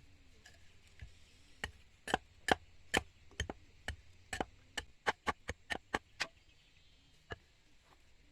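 A series of sharp tool strikes on wood, about two a second, quickening briefly around the middle before a last lone blow near the end.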